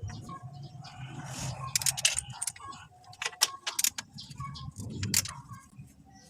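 Small metal tools and parts clinking and jingling as they are handled, in several short clusters of sharp clicks.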